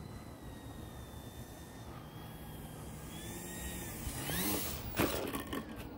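Electric motor and propeller of an E-flite Eratix flat-foam RC plane whining faintly at low throttle as it comes in to land, its pitch sagging slowly. About four seconds in there is a short rise in pitch, and around five seconds in come a couple of sharp noisy hits, likely the plane touching down.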